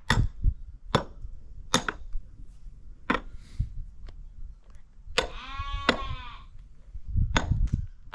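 A sheep gives one long, wavering bleat about five seconds in, among several sharp knocks.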